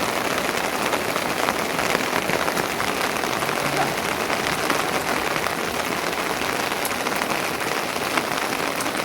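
Steady rain falling, a dense even patter of drops at a constant level.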